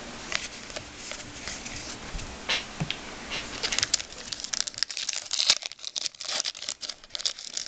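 Crinkling and tearing of a trading-card pack's wrapper as it is opened and handled: scattered crackles at first, becoming dense and rapid about halfway through.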